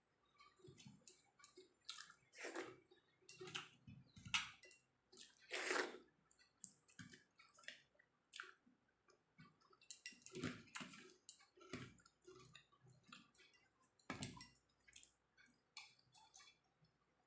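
Faint eating sounds: irregular wet chewing and soft clicks and squishes of rice and jackfruit curry being eaten, a few louder smacks among them.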